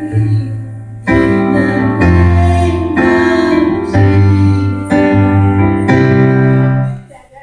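Electronic keyboard playing a slow series of held chords, a new chord about every second, stopping abruptly about seven seconds in.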